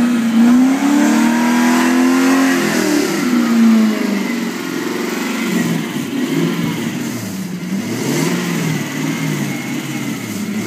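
1992 Lexus SC400's 4.0-litre V8 being revved from idle as it burns off a Seafoam treatment. The revs are held high for a couple of seconds, then drop back, then come in several shorter blips that rise and fall.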